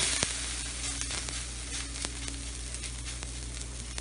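Ragi (finger millet) roti dough sizzling on a hot griddle. It starts suddenly and loudly as the roti goes onto the pan, then keeps up a steady sizzle with scattered small crackles.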